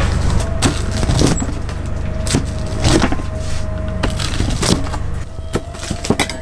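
Food-truck kitchen work: irregular sharp knocks and clacks of utensils and boards, over a steady low hum.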